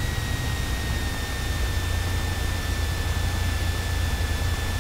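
Cessna 172 cabin noise in the landing flare: the engine throttled back and running with a steady low rumble, with a thin high whine that slowly sinks in pitch.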